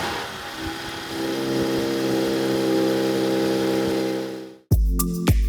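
Mercedes-AMG E53 Coupé's turbocharged inline-six settling after a rev into a steady idle. Near the end the engine sound fades out and music with a steady beat starts.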